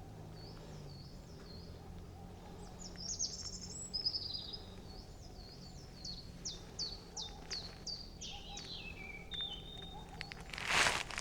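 Woodland songbirds singing: high phrases of quickly repeated downward-sliding notes, one of them ending in a falling trill. A short burst of rustling noise near the end, the loudest sound, over a low steady background rumble.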